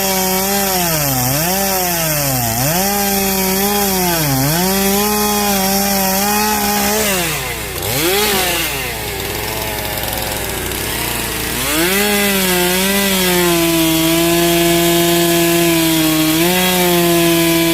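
Chainsaw engine at high revs cutting through a log. Its pitch dips about once a second as the chain bites and pulls down, then falls toward idle for a few seconds about halfway through. Near the end it revs back up and holds a steady, slightly lower pitch under load.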